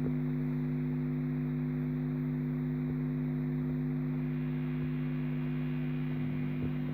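Fender Hot Rod DeVille III 212 tube amp, with a Fender Professional Stratocaster plugged in, giving off a strange loud noise: a steady low hum of several unchanging tones that does not rise, fall or fade. A few small clicks come in near the end.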